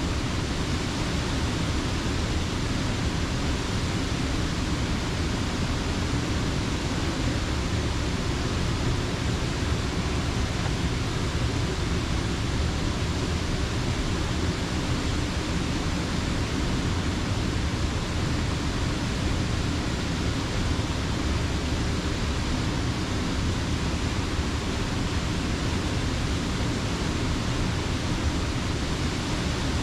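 Creek water rushing steadily over a mill dam, an even, unbroken rush with a deep low end.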